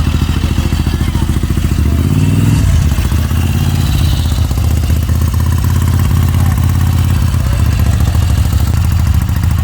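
Car engine running; its note rises about two seconds in and then holds steady, as when a car pulls away and cruises.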